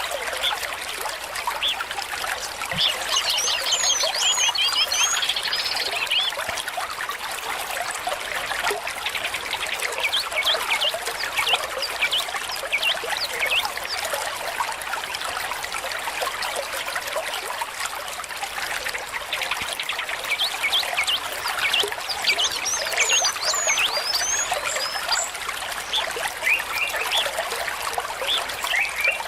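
Small stream trickling and bubbling steadily, with short bird chirps a few seconds in and again past the twenty-second mark.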